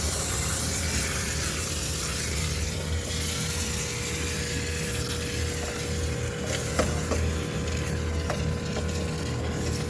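High-pressure steam cleaner jetting steam into a sneaker washing machine: a steady hiss, strongest in the first few seconds, over a machine hum, with a few sharp clicks a little past halfway.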